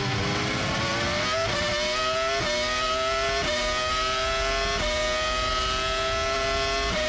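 Formula 1 V10 engine heard onboard, accelerating hard up through the gears. The high engine note climbs, then drops sharply at each of five quick upshifts.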